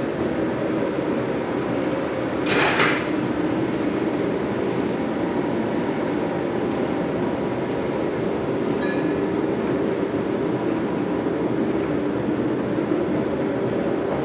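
HD/PE plastic bag cutting machine running steadily with a continuous mechanical drone. A brief hiss comes about two and a half seconds in.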